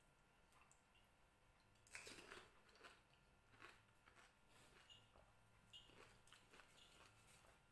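Faint crunching and chewing as crisp fuchka (pani puri) shells, filled with potato and dipped in sour tamarind water, are bitten and eaten. There is a cluster of crunches about two seconds in, then smaller crunchy clicks.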